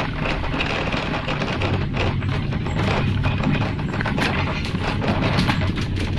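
Steady low rumble of a fire engine running, with many sharp knocks and thumps of firefighting equipment being handled and carried.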